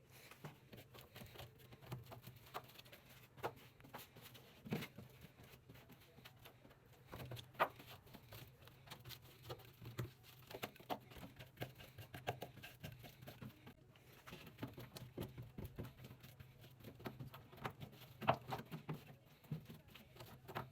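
Faint, irregular dabbing and scraping of undercoating being spread over a car's trunk wheel well, some strokes louder than others, over a low steady hum.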